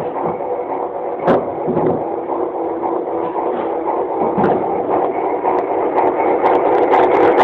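Heisler geared locomotive running with a steady mechanical hum that grows a little louder, with some ticking, near the end.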